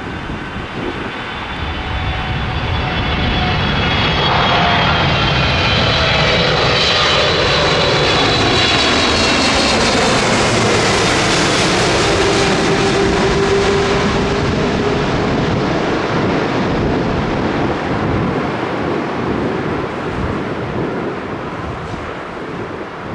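Airliner's engines passing low overhead: the sound builds to a loud, steady rush, and its engine whine drops in pitch as the aircraft goes past, then slowly fades away.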